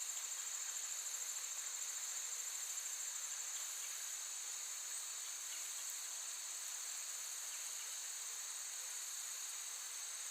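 Crickets trilling in a continuous high-pitched chorus, rapidly pulsing for the first few seconds and then evening out.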